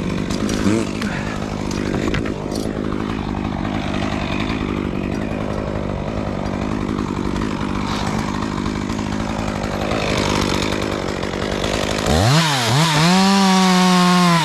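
A chainsaw engine running with a steady drone and cutting noise. About twelve seconds in, a chainsaw revs up hard to full throttle, its pitch dipping and climbing back near the end as the throttle is let off and opened again.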